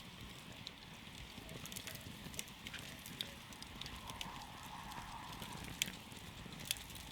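Wood campfire crackling, with irregular sharp pops and snaps over a steady low rush of burning.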